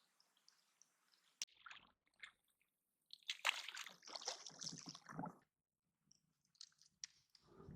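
Water sloshing in a few short bursts, the longest lasting about two seconds midway, with a sharp click near the start.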